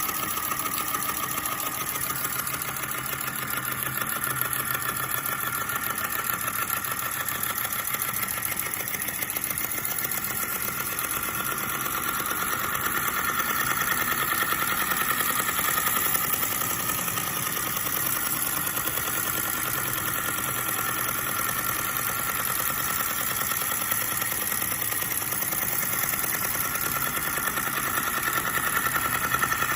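Small model flame-eater (vacuum) engine with a crossbeam running, giving a rapid, steady mechanical clatter.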